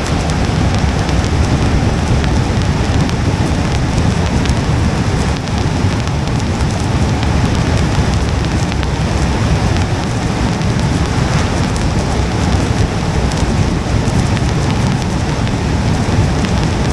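Steady rain on a car, an even hiss with a low, constant rumble underneath that does not change.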